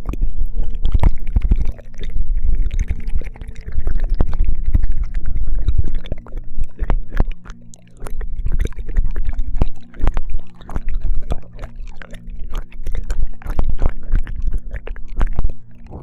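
ASMR ear licking close to a binaural microphone: a dense run of wet mouth clicks and smacks over low rumbling from contact with the microphone, with a faint steady low hum beneath.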